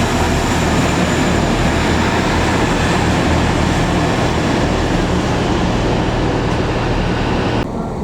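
Train in motion: a steady rumble with a rushing noise over it, cut off sharply near the end.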